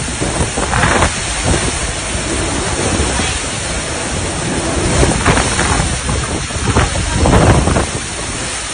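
Hurricane wind blasting the microphone, a dense rushing noise that swells in several gusts, strongest about a second in, around five seconds in and around seven and a half seconds in.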